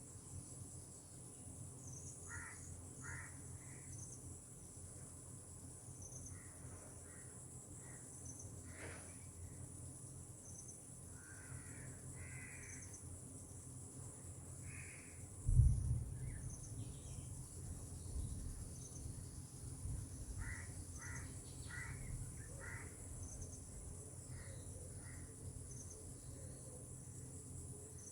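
Tropical outdoor ambience: a steady high insect trill with a short high chirp repeating every second or two, and birds calling in short series of three to five harsh notes. About halfway a sudden low rumble, like a gust of wind on the microphone, is the loudest sound and fades over a few seconds.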